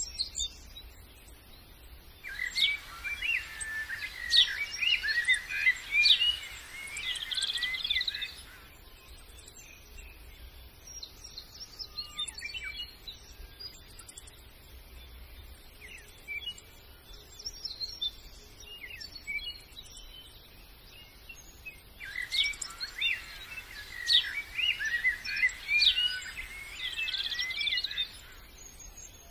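Many birds chirping and calling together in two dense bursts of about six seconds each, one starting about two seconds in and one about twenty-two seconds in, each starting and stopping abruptly, with scattered single chirps between them.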